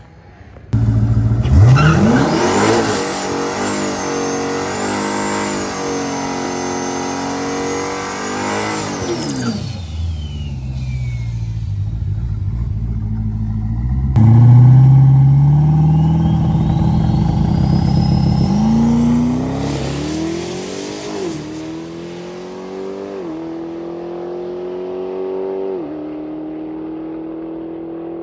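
Boosted Hemi V8 drag car at full throttle with a high whine over the engine. First a long high-revving burst, then a hard launch pulling away through several upshifts; the pitch climbs and drops back at each shift as the car draws away.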